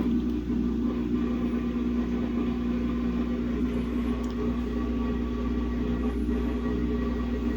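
Samsung WA50R5200AW top-load washing machine running with a steady motor hum, its drum turning a single pair of pants, which makes a very imbalanced load.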